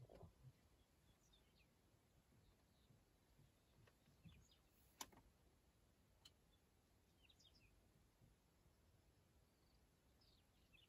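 Near silence with faint, scattered bird chirps. A sharp click about five seconds in and a softer one a little over a second later.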